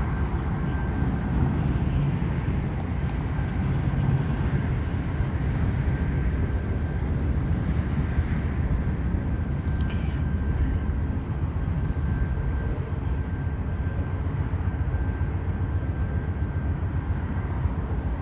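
Train crossing a steel truss bridge: a steady, unbroken low rumble.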